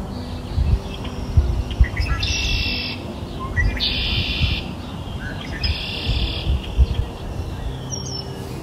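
A bird repeating the same short, buzzy trill about every two seconds, four times, over a steady low background.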